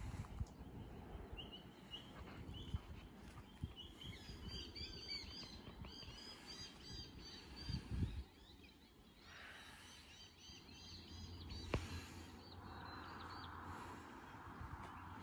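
Birds chirping outdoors: many quick, repeated high chirps that stop about twelve seconds in, over a low rumble with scattered thumps. A soft hiss follows near the end.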